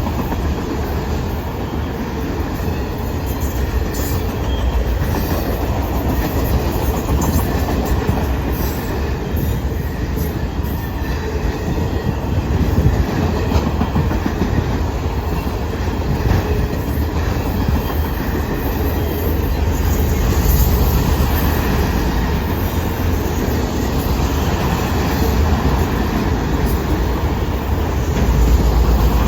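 Norfolk Southern manifest freight train's cars rolling past, a steady rumble of wheels on rail.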